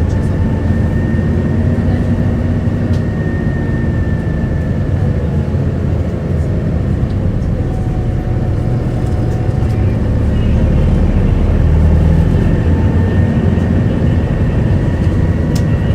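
Isuzu Erga diesel city bus heard from on board while driving: a steady low engine and road rumble, with a faint high whine running over it.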